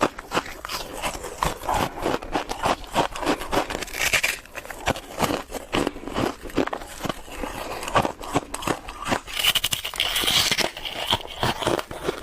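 Ice being bitten and chewed close to the microphone: a rapid, irregular run of crisp crunches and crackles.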